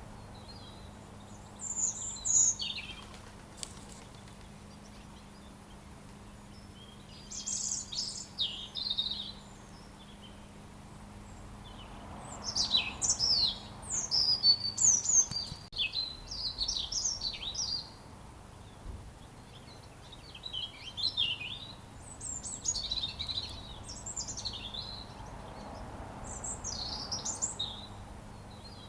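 Robin singing: bouts of quick, high, varied notes with pauses of a few seconds between them, over a faint steady background hum.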